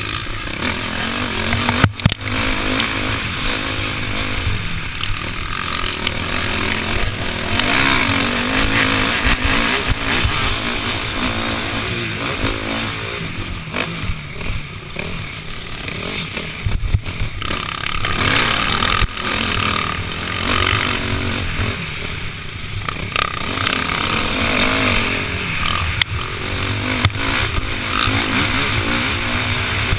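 KTM 505 four-stroke single-cylinder dirt bike engine racing on a motocross track, revving up and down hard as the throttle opens and closes, with brief sharp throttle cuts about two seconds in and again about halfway through.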